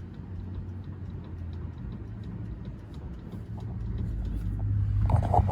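Light, rapid clicking from the worn Pittman arm in a 1980 Chevy C30's steering linkage as the steering wheel is rocked back and forth: play in the linkage from a bad Pittman arm. A steady low hum runs underneath, and the sound grows louder near the end.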